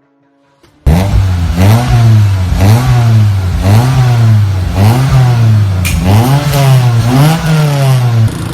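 Perodua Myvi 1.3-litre four-cylinder petrol engine breathing through a Max Racing full exhaust system with R108-MY muffler, free-revved in about seven quick blips, each rising and falling in pitch. It starts suddenly about a second in and drops back to idle near the end.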